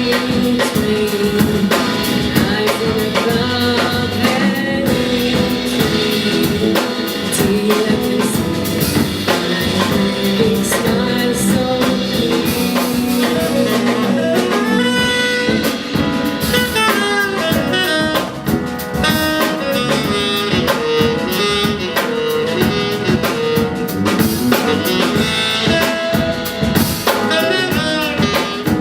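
Small jazz band playing an instrumental passage: tenor saxophone playing a melodic line over piano, bass and drum kit.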